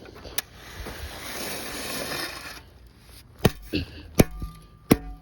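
Gravel being shovelled: a scraping, rushing noise for about two seconds, then four or five sharp knocks as the shovel strikes the gravel to pack it down.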